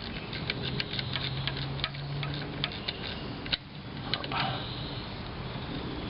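Ratchet wrench clicking in quick, irregular runs as the small bolt holding an air-conditioning line fitting is tightened down, with a brief pause about three and a half seconds in.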